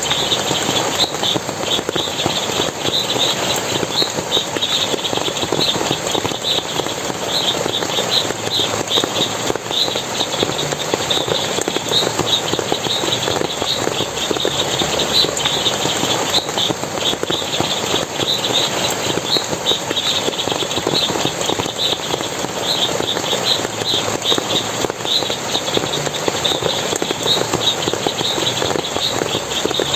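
Steady splashing of forest water, with short high chirps repeating a few times a second all through.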